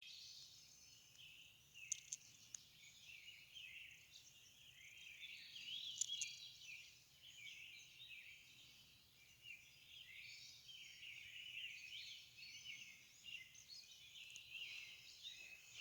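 Many birds singing at once in a faint early-morning dawn chorus: overlapping high chirps and short whistles, with a few sharper, louder notes about two seconds in and again about six seconds in.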